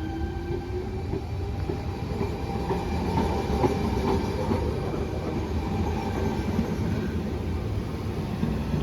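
Sydney Trains Tangara electric train pulling out of a station: a motor whine rises in pitch over the first second or so, under a steady rumble of wheels with clicks over the rail joints, growing slightly louder as it gathers speed.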